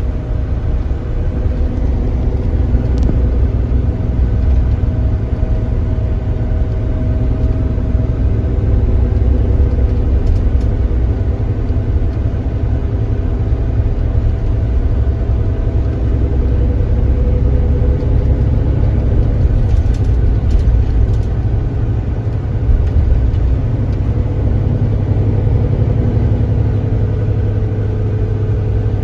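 Kia Granbird Sunshine coach's engine running under way: a steady low rumble with engine tones that drift slowly up and down in pitch as the revs change.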